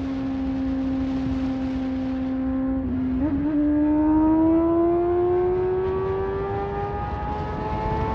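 Motorcycle engine running under way with wind rush. About three seconds in, a gear change breaks the note; it then climbs slowly as the bike accelerates.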